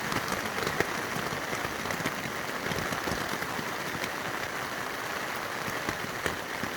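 Rain falling steadily, a dense even hiss with scattered sharper taps of single drops.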